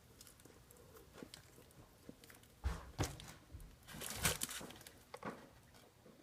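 A man chewing a large mouthful of burger: a few short, irregular wet smacks and clicks of eating, the loudest about four seconds in.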